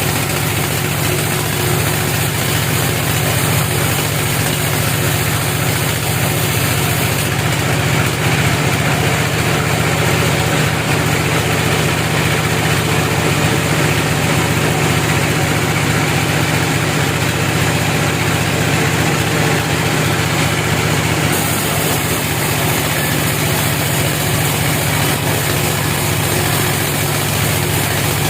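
Engine of a log-cutting sawmill machine running steadily, with a brighter hiss added from about 7 to 21 seconds in.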